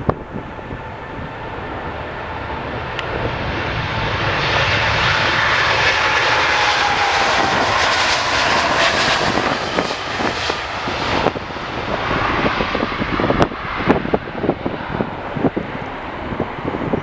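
Jet airliner passing by: its engine roar builds, peaks with a whine falling in pitch, then fades away. Wind gusts buffet the microphone near the end.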